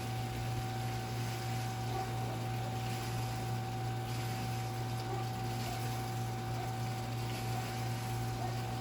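Steady low electrical-sounding hum with a faint high tone over soft background noise, with no thunder: the lightning is too far away to be heard.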